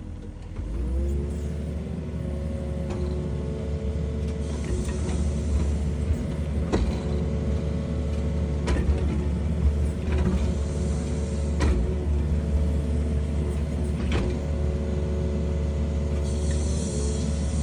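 Excavator's diesel engine revving up about a second in and then running steadily under work, with a few sharp knocks.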